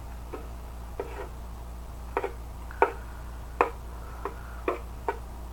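Close-up chewing of a mouthful of noodles: a string of short, irregular wet mouth clicks and smacks, roughly one or two a second.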